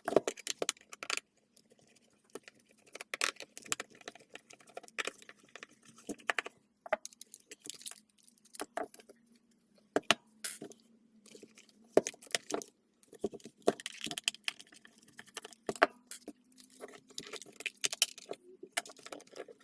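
Irregular plastic clicks, taps and rattles of a cordless stick vacuum's battery housing being handled and pried apart.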